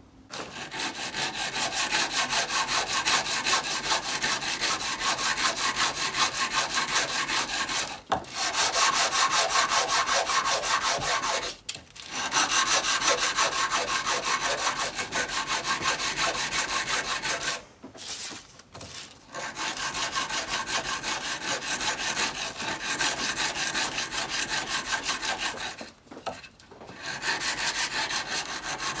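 Steel blade of a rusty, pitted antique chisel rubbed rapidly back and forth on an abrasive sharpening surface to flatten and clean the front of the tool. It is a steady scraping rhythm, broken by brief pauses about four times.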